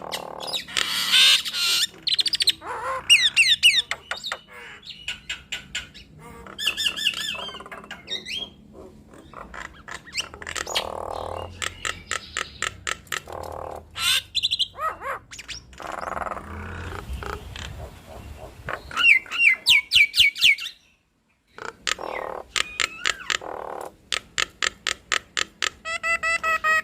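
Nias hill mynas calling in a duet: loud swooping whistles, harsh squawks and rapid runs of sharp clicks, one call after another. There is a short break of near silence about three-quarters of the way through.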